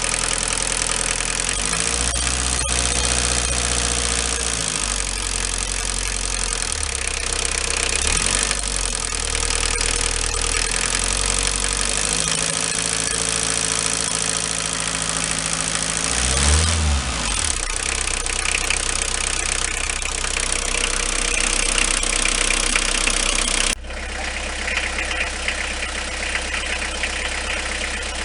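Renault 21 turbo diesel engine running, its revs rising and falling a few times, with the light knock that the owner hears on acceleration. No mechanic has traced the knock, and the owner rules out a con-rod or a bearing. The sound drops suddenly a few seconds before the end.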